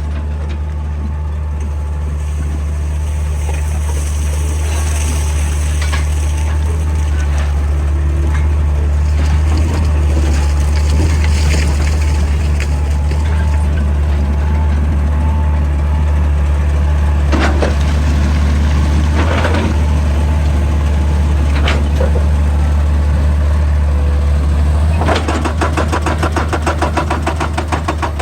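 Excavator's diesel engine running with a steady low drone. Scattered knocks sound through it, and a fast run of evenly spaced blows comes near the end.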